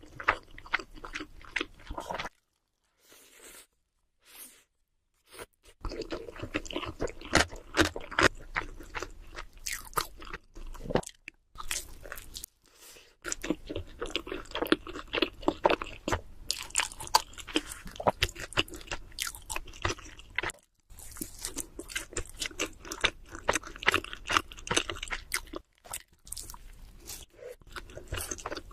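Close-miked chewing of pizza with crunchy crust: dense runs of crackling bites and wet chewing, broken by a few short pauses, the longest a few seconds near the start.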